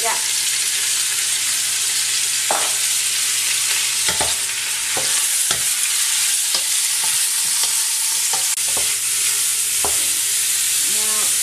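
Onions, pork and garlic frying in hot coconut oil in a metal pot, sizzling steadily. A spoon stirs them, knocking against the pot now and then.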